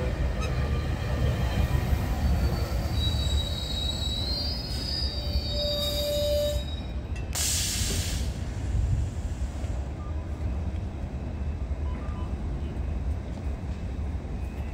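Bilevel commuter train rolling slowly along the platform with a steady low rumble, its wheels and brakes letting out high-pitched squeals for a few seconds. About seven seconds in there is a short hiss, and then only the low rumble goes on.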